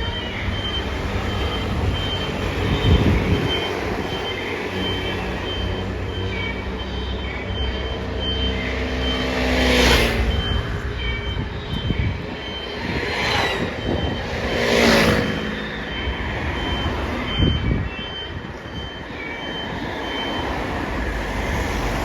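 Fire engine reversing, its backup alarm beeping at a steady rhythm over the diesel engine. Three loud hisses come near the middle.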